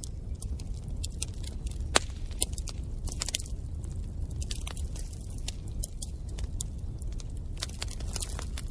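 Wood fire in a fireplace crackling: irregular sharp pops and snaps, the loudest about two seconds in, over a steady low rumble.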